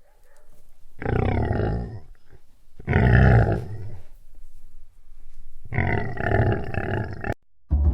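Three deep, growling animal roars, each about a second long, with the last one the longest.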